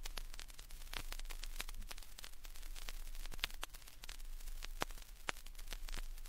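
Vinyl record surface noise: irregular crackles and pops over faint hiss and a steady low hum, the stylus running through a quiet stretch of groove between recorded sound effects.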